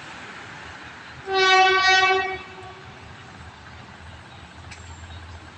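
Train horn sounding a single blast of about a second, starting about a second in, one steady pitch and much louder than the low steady rumble around it.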